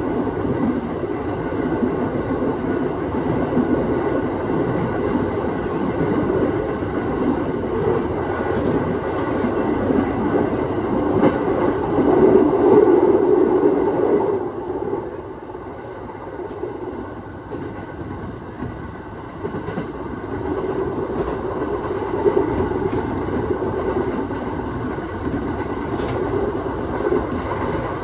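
Aoimori Railway 701 series electric train running, heard from on board: steady wheel-and-rail running noise with some clickety-clack. It swells about twelve seconds in, drops noticeably about halfway through, then builds back up toward the end.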